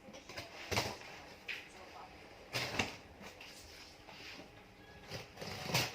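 Scattered short knocks and rustles, about four in all, the loudest near the end: a product box and its packaging being handled and opened.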